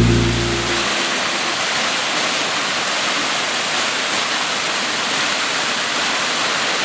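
Waterfall rushing: a steady, even roar of falling water close by.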